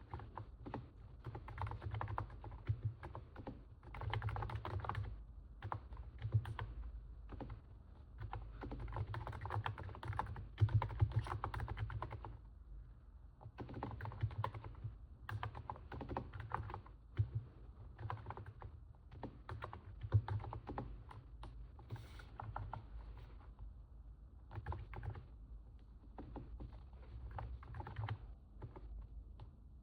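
Typing on a NIZ 68 Pro electro-capacitive keyboard: runs of quick, soft keystrokes in bursts of a few seconds, with brief pauses between them.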